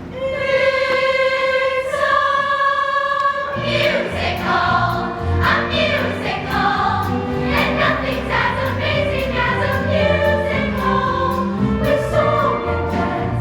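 Show choir singing a musical number with instrumental accompaniment. The voices open on a long held chord, and at about three and a half seconds a bass line and drum beat come in under the singing.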